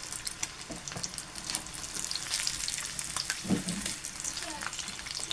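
Fish frying in hot oil: a steady sizzle dotted with many small crackles and pops.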